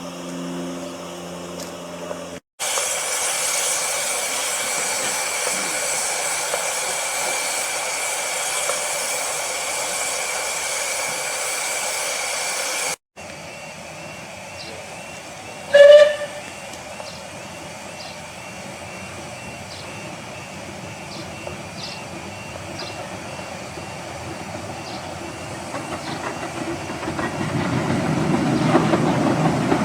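A Romney, Hythe and Dymchurch Railway steam locomotive hissing steam steadily for about ten seconds. After a cut, a whistle gives one short sharp toot, and near the end the low rumble of a train grows louder as it draws closer.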